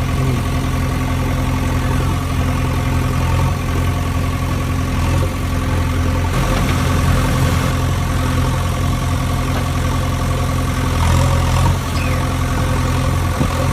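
Heavy diesel engine idling steadily, with a low even rumble.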